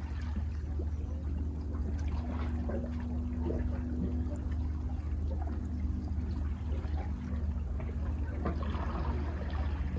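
Sea water washing and trickling over rocks at the foot of sea cliffs, with small splashes over a steady low rumble of surf.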